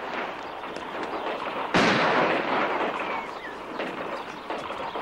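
A loud gunshot about two seconds in, dying away slowly over the next couple of seconds, after the fading tail of an earlier shot; a few fainter knocks follow near the end.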